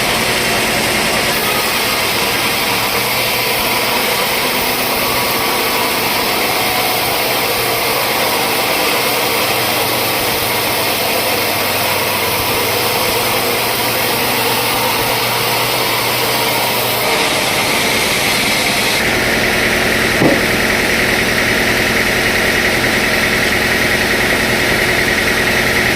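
Sawmill machinery running steadily, a continuous mechanical hum and whine. Its tone changes about two-thirds of the way through, when a steady high-pitched whine sets in, and there is a single brief knock shortly after.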